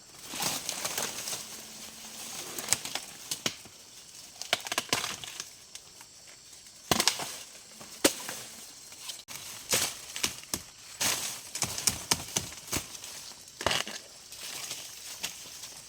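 Irregular cracking, snapping and rustling of dry plant material being crushed and broken, in uneven clusters of sharp snaps.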